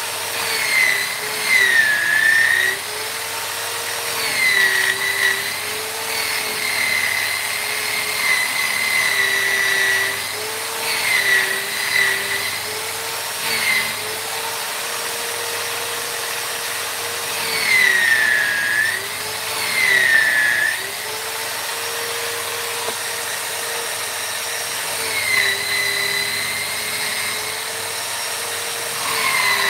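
High-speed rotary power tool running continuously on wood, its whine dipping in pitch again and again as it bites into the work and recovering as it is eased off.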